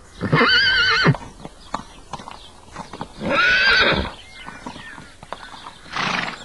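A horse neighing twice, each whinny under a second long with a quavering, wavering pitch, with light hoof clip-clops between. A short noisy burst follows near the end.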